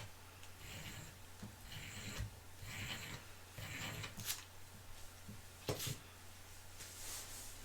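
Soft handling noises: brief rustling and scraping swishes with a few light clicks, over a steady low electrical hum.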